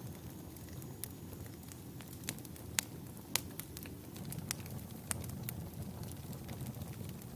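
Wood logs burning in a fireplace: a steady low rumble of the flames with irregular sharp crackles and pops, the loudest pops about three seconds in.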